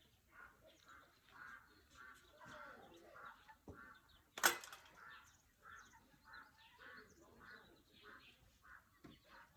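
Birds calling over and over in short, repeated calls, with one sharp knock about halfway through.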